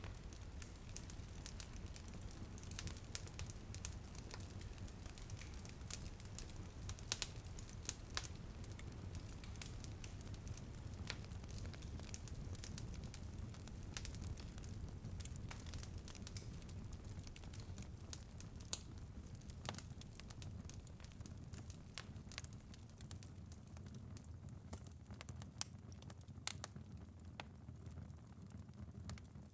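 Wood fire crackling in a fireplace: irregular sharp pops and snaps scattered over a steady low rumble, the pops growing sparser near the end.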